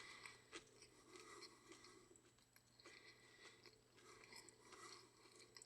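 Faint chewing of a big mouthful of crispy fried-chicken sandwich, with small irregular crunches of the breading.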